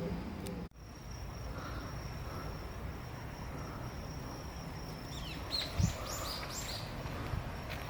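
Outdoor background noise with a faint steady high tone, and about five to six seconds in a short run of quick, high, falling chirps from a small bird, with a soft thump among them.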